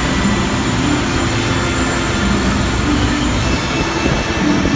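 Studio tour tram on the move: a steady rumble of its engine and rolling wheels.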